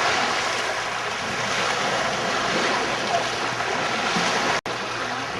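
Steady rushing noise of wind buffeting the microphone along with water, with a split-second dropout to silence a little past four and a half seconds in.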